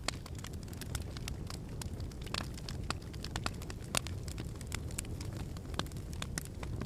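Fire crackling in a fireplace: irregular sharp pops and snaps over a steady low rumble of flames.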